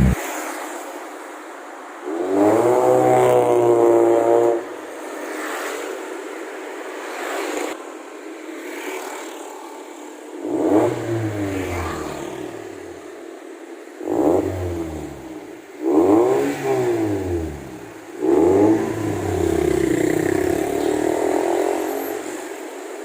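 Toyota Vios gen 2 four-cylinder engine revved through an aftermarket NDK Exhaust full system (header, resonator, DK-series muffler): one rev held for about two seconds, then four quick throttle blips that rise and fall back, idling in between.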